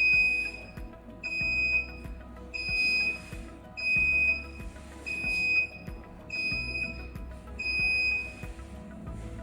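Electronic buzzer beeping one high, steady tone seven times, about one beep every 1.2 s: the proximity warning alarm sounding.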